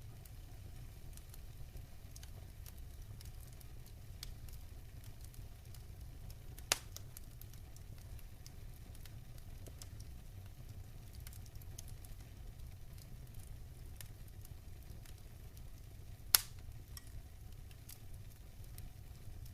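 Wood fire burning in a fireplace: a steady low rumble with many faint crackles, and two sharp pops from the burning logs, one about a third of the way in and a louder one near the end.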